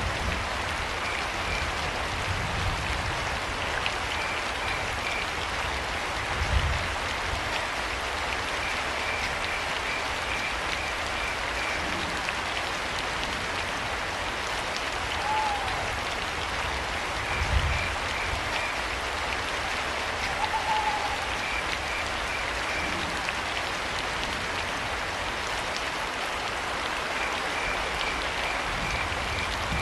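Steady rain hiss with crickets chirping in short trains of pulses that come back every few seconds. Twice around the middle a short owl hoot sounds, and two low thumps stand out above the rain.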